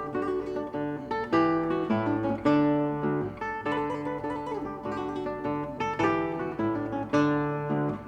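Acoustic guitar music: plucked notes and strummed chords over a bass line that changes every second or so.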